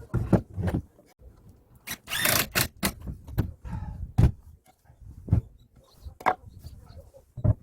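Irregular knocks and thumps from handling lumber and tools during woodworking, with a short scraping burst about two seconds in.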